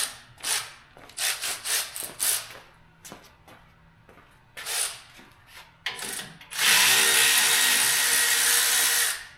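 Power wrench undoing bolts on a truck's rear axle: several short bursts, then one steady run of nearly three seconds near the end that stops sharply.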